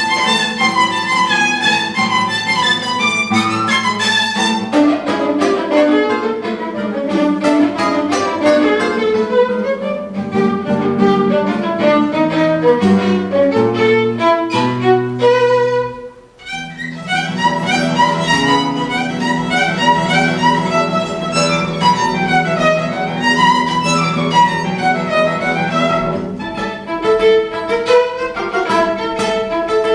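Violin and guitar duo playing: a bowed violin melody over guitar accompaniment, with a short break about halfway through before the playing picks up again.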